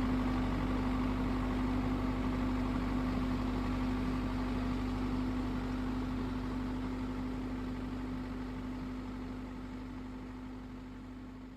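A vehicle engine idling with a steady hum, slowly fading out toward the end.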